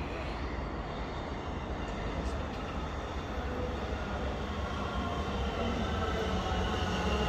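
Melbourne electric suburban train approaching and running into the station, a steady rumble that grows slowly louder, with a faint whine over it.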